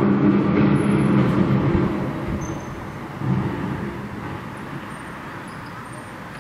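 A low, droning, horn-like hum of several tones together, of the kind reported as the 'strange sounds' of 2013. It swells and fades twice: one long swell that fades out about two seconds in, then a second that rises about three seconds in and dies away.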